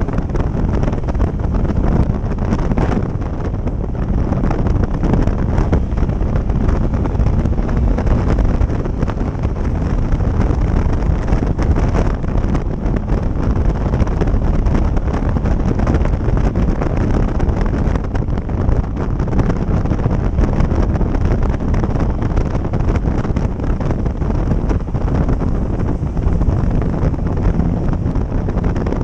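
Steady, loud wind buffeting on the microphone of a moving motorcycle, a dense low rumble with the bike's running noise mixed in.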